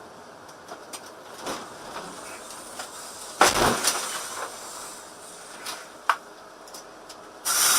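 Steady vehicle road noise with scattered clicks, a sudden loud bang about three and a half seconds in, a sharp knock about six seconds in, and another loud burst of noise near the end.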